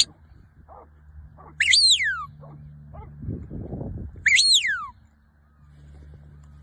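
A working sheepdog yelping twice, high-pitched cries that rise briefly and then slide down in pitch, about two and a half seconds apart. Between them comes a rougher, lower sound, with a low steady hum underneath throughout.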